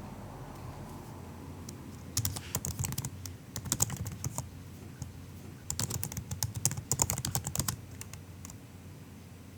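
Soft typing on a MacBook laptop keyboard: two quick runs of keystrokes, the first starting about two seconds in and the second just past the middle, with a few lone key taps near the end.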